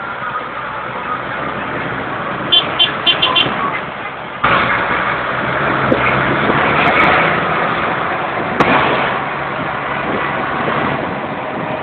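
Deutz tractors running in a street, a steady mix of engine noise that steps up louder about four and a half seconds in. Four short high beeps come quickly one after another a little before that.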